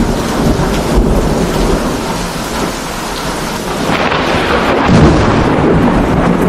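Heavy rain with rolling thunder, the rumble swelling louder about four seconds in.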